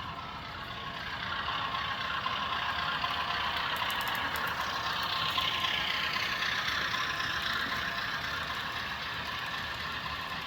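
HO-scale model Sharknose diesel locomotive running with a train, giving a steady mechanical engine-like sound. About four seconds in, the sound swells and rises in pitch for a few seconds, then settles.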